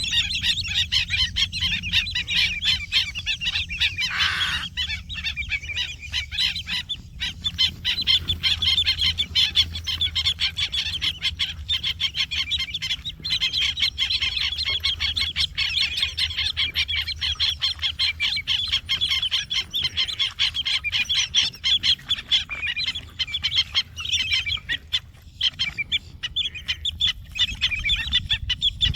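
Wading birds squawking constantly in a dense run of overlapping calls, with one louder call about four seconds in.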